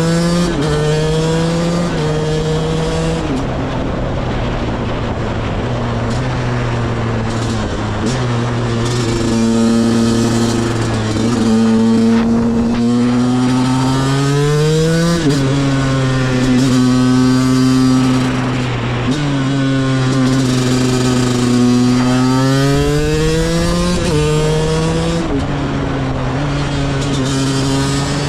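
KTM 125 EXC two-stroke single-cylinder engine, fitted with a CRD pipe and the stock silencer, pulling under way. Its pitch climbs with the revs and drops sharply at each upshift, with a run of quick shifts near the start and again near the end. In between are longer steadier stretches and slow swells of rising and falling revs.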